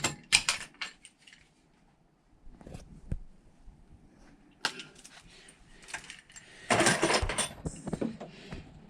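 Small metal parts and hand tools clinking and clicking as a part is fitted to a scooter, with a louder clatter lasting under a second about seven seconds in.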